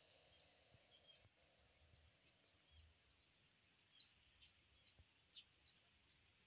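Faint bird chirps: a scattered string of short, high notes, the loudest about three seconds in, over a faint steady outdoor hiss.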